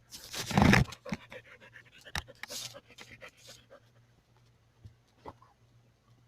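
Dog panting, with a loud thump or rustle about half a second in and a few sharp clicks after it.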